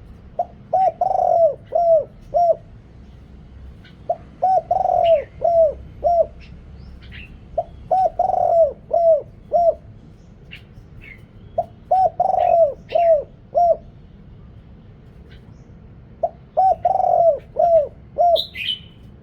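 A deep-voiced male spotted dove cooing its song, used as a decoy call to lure wild doves. It sings five phrases, one about every four seconds, each a quick run of six or seven low coos with a longer, louder coo in the middle. Small birds chirp faintly in between, and there is a higher call near the end.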